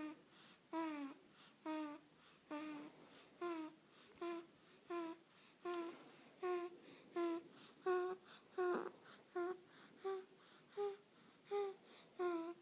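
A one-month-old baby making short, pitched squeaky noises over and over in a steady rhythm, about one every three-quarters of a second, while drifting off to sleep.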